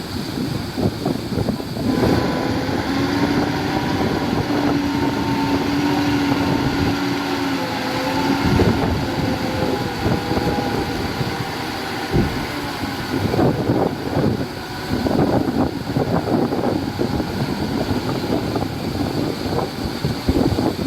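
Heavy diesel construction machinery working: an engine runs steadily under load, its note holding a higher pitch from about two seconds in until about eight seconds, with a run of short clanks and knocks from about halfway through.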